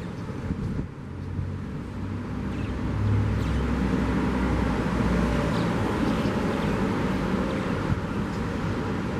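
A car passing by, its engine rumble swelling about three seconds in and easing after about five, over the steady wash of sea waves.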